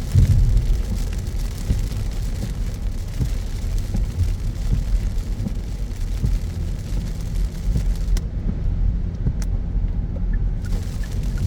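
A car driving in heavy rain: a steady low road and engine rumble under a rain hiss. About eight seconds in, the hiss drops away for about two seconds while the rumble carries on.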